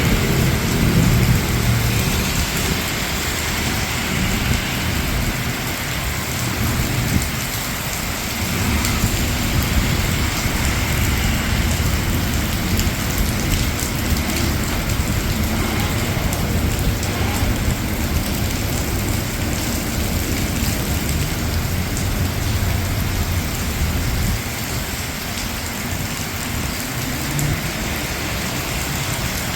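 Steady rain falling on hard surfaces, a constant hiss with a low rumble underneath that swells and fades, strongest near the start.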